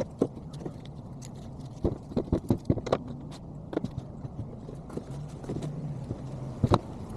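Hand tools knocking and tapping on metal, a quick irregular run of sharp knocks with a cluster about two seconds in and two loud ones near the end, over a steady low hum.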